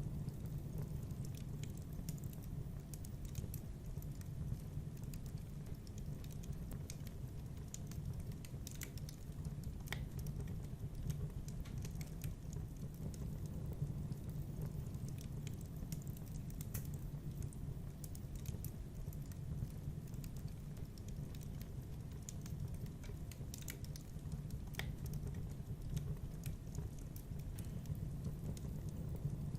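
Wood fire burning in a fireplace: a steady low rumble with scattered sharp crackles and pops at irregular times.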